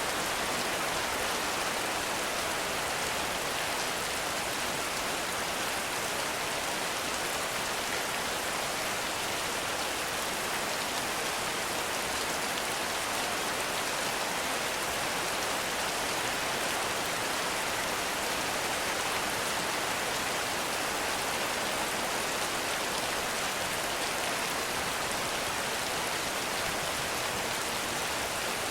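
Heavy rain falling steadily, a dense, even hiss of many drops with no thunder.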